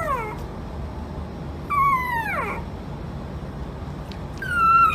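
A kitten meowing, high-pitched cries that drop in pitch. One call tails off at the start, a full meow comes about two seconds in, and another begins near the end.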